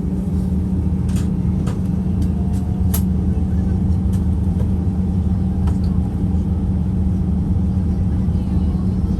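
Jet airliner cabin noise from a passenger seat: the engines' steady hum over a low rumble, with a few faint clicks and rattles here and there.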